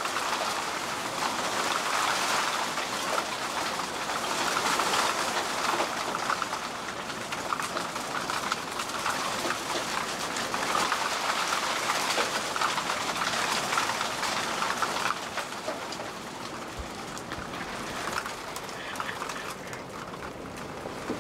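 Heavy rain pouring down onto a flooded street, a steady dense hiss that eases a little after about fifteen seconds.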